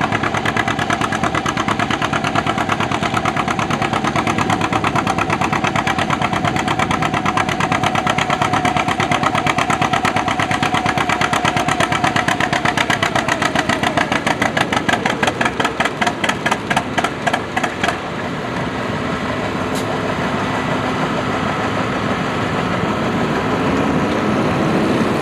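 Antique pulling tractor's engine working hard under load, its firing beat slowing as it lugs down, then stopping about 18 seconds in. A smoother engine sound follows and revs up near the end.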